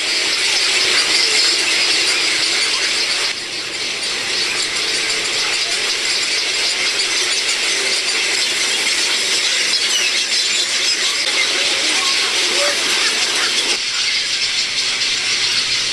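Dense, continuous chorus of many overlapping shrill calls from a breeding heron colony, with the sound changing abruptly about three seconds in and again near the end.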